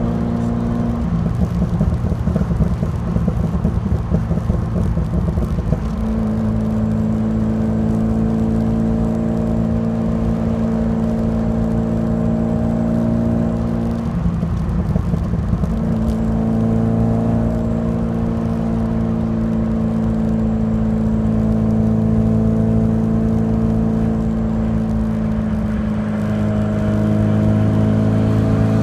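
Alfa Romeo Alfasud Sprint QV's 1.5-litre flat-four boxer engine running at fairly steady revs through a stainless steel exhaust. The note turns rougher for a few seconds about a second in and again around the middle, and the revs climb a little near the end.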